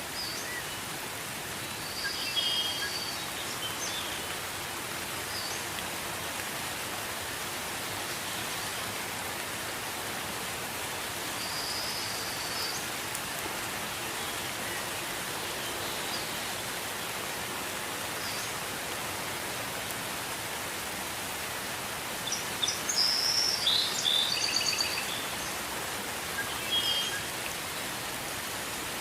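Steady gentle rain falling, a continuous even hiss, with short high bird chirps now and then and a busier run of chirping a little after the middle.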